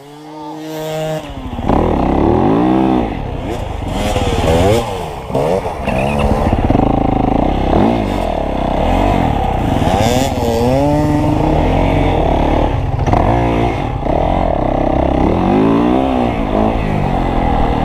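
Dirt bike engine revving hard, its pitch repeatedly rising and dropping as it accelerates, shifts and slows around the barrel turns. It runs quieter and steadier for the first second or so, then loud from about two seconds in.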